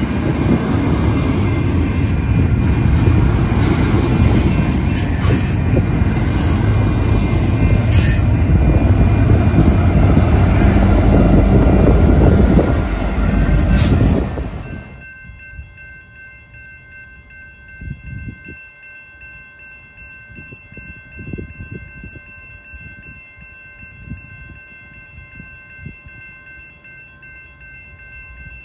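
Double-stack intermodal container train rolling past at close range: a loud, steady rumble of wheels on rail with a few sharp squeals, ending abruptly about halfway through. After that, far quieter, steady high ringing tones from a grade-crossing signal, with soft low thumps.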